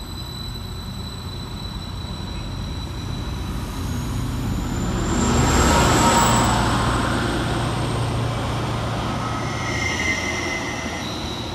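Class 231 Stadler FLIRT diesel multiple unit accelerating out of the station past the platform. The rumble builds to its loudest about six seconds in and then eases as the train moves off, with a high whine rising in pitch as it gathers speed.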